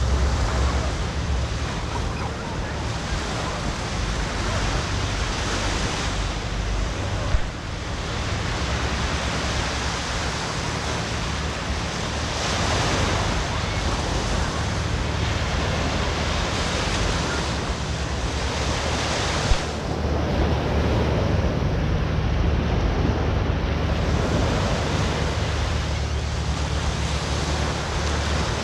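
Ocean surf washing onto the beach in slow swells, with wind buffeting the microphone, plus two brief knocks.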